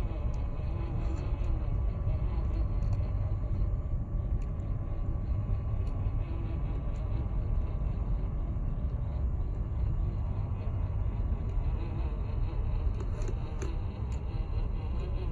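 WPL C34 Toyota FJ40 RC truck driving off-road: its small electric motor and gearbox buzz steadily, with scattered sharp ticks, a ticking the owner lays to a broken steering servo.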